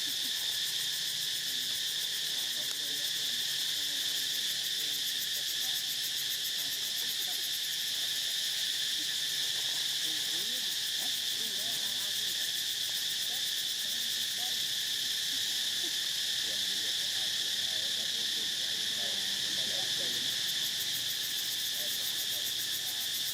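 Steady chorus of insects, a continuous high buzzing drone that holds an even level throughout.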